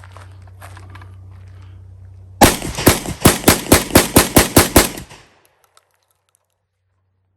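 SDS Lynx 12-gauge semi-automatic shotgun fired in rapid succession, about ten shots in under three seconds, starting a couple of seconds in. Before the shots there is a low steady hum and a few light clicks.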